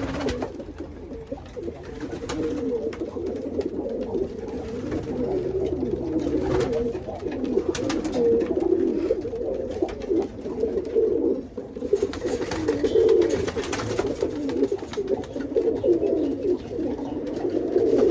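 Many pigeons cooing together in an overlapping, continuous chorus, with a few light clicks and knocks.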